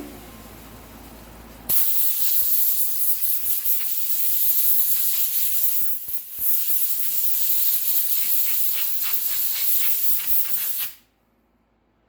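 Pressurised spray hissing loudly and steadily, starting about two seconds in, with a brief break midway and some fluttering in the later part, then stopping abruptly near the end.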